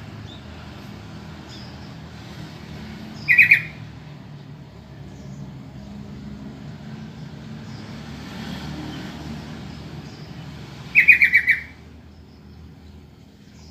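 Sooty-headed bulbul (trucukan) giving two short bursts of rapid chattering notes, about eight seconds apart, the second burst longer than the first. Between them is a steady low background rumble.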